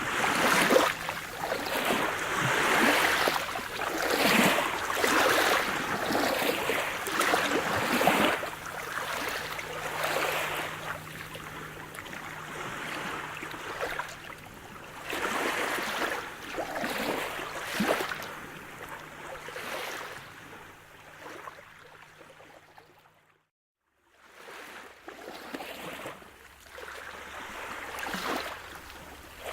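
Sea surf: waves washing in and out in repeated swells of hiss. The sound dips and drops out completely for under a second about three-quarters of the way through, then picks up again.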